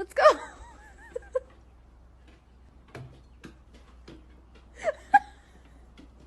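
Dog whimpering: a short high whine that bends in pitch and trails off wavering right at the start, then a second brief whine about five seconds in.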